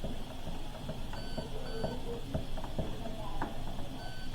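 Hoover H-Wash 300 Plus washing machine control panel beeping as its program settings are selected: three short beeps in quick succession about a second in, and another near the end.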